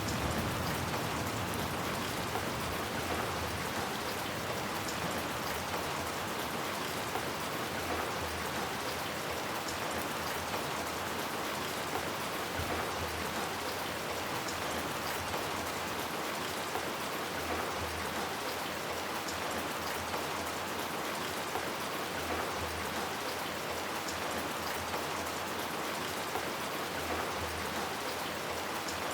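Steady rain falling: an even hiss, with the tiny ticks of single drops scattered through it.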